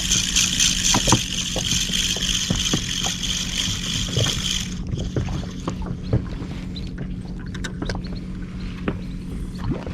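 Small inflatable fishing boat at sea: a steady low hum runs underneath, a loud high hissing whir cuts off suddenly about five seconds in, and scattered light knocks and taps follow.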